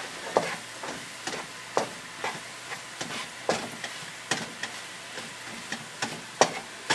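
Sliced baby portobello mushrooms and onions sizzling softly in butter in a non-stick pan while being stirred, the utensil scraping and knocking against the pan about twice a second.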